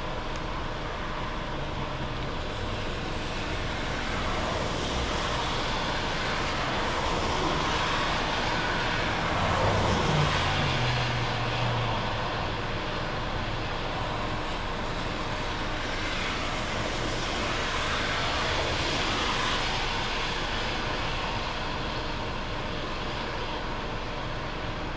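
Jet airliner engines running, a steady rush that swells to a peak about ten seconds in, where a low hum drops in pitch as the aircraft goes past, then eases off.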